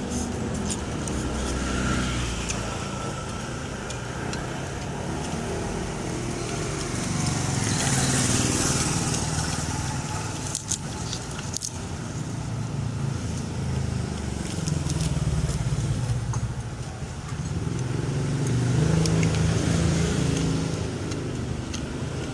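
Road traffic: vehicle engines running steadily, with a vehicle passing close about a third of the way in and another near the end, plus a few faint clicks.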